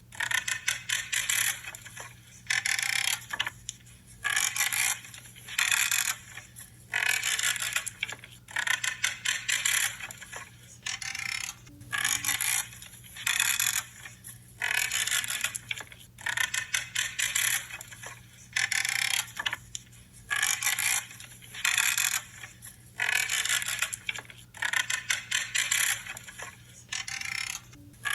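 Branches being cut over and over with pruning shears. Each cut is a short, crunching creak, and they come about once a second.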